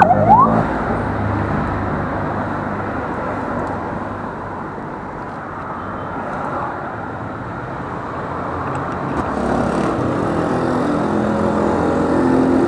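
Roadside traffic noise: a steady rush of passing vehicles. A siren's repeated rising whoops end about half a second in, and an engine's hum grows louder near the end.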